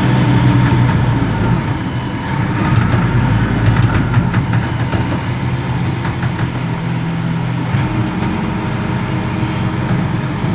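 Reach stacker's diesel engine running steadily, its note shifting now and then.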